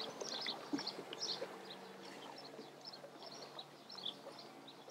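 Birds chirping faintly outdoors: many short, high calls scattered and overlapping, over a faint, steady low hum.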